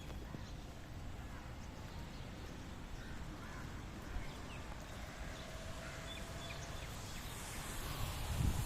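Birds calling in short, scattered calls over steady outdoor background noise. Near the end, wind buffets the microphone with a few low thumps.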